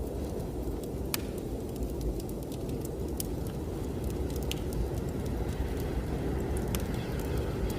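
Wood fire crackling in a fireplace, with irregular sharp pops, over the steady low rush of blizzard wind.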